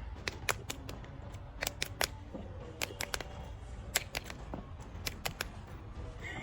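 A quick, irregular series of sharp clicks and taps, about twenty in all, over a low steady hum.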